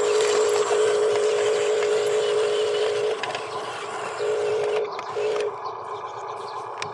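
Electric motor of a radio-controlled construction vehicle whining steadily for about three seconds, then cutting in again for two brief spells as the controls are worked, over a steady mechanical hiss. The sound is louder at the start and quieter after about three seconds.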